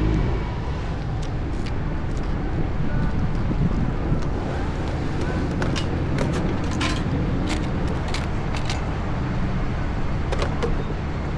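Motor vehicle engine running with a steady low rumble of road noise, broken by a series of short sharp clicks in the middle.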